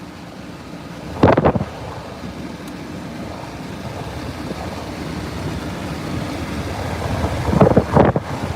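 Severe-storm wind rising steadily, with strong gusts buffeting the microphone about a second in and again near the end.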